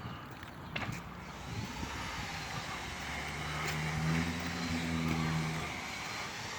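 Car engine and road noise, with a low engine hum that swells about halfway through and fades again near the end. A single click about a second in.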